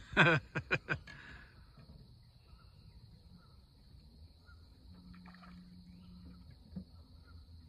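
A bird calling loudly four times in quick succession in the first second, the first call the longest and falling in pitch.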